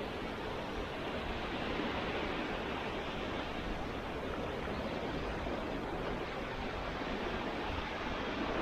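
Steady, even rush of Baltic Sea surf breaking on the beach.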